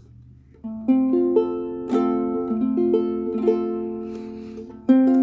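Ukulele played: a short phrase of picked notes that ring on over one another, ending on a louder chord near the end that is left ringing.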